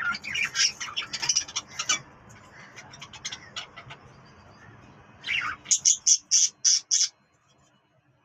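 Pet budgerigars and parrots chattering and chirping, then a run of about six loud, evenly spaced squawks near the end.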